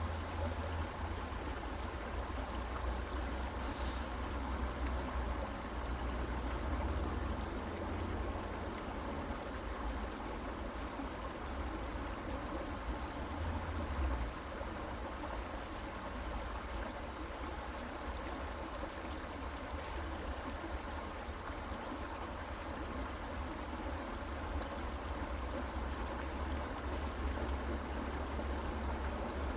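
A creek's water running steadily over its bed, an even rushing with a steady low rumble beneath it and a faint tick about four seconds in.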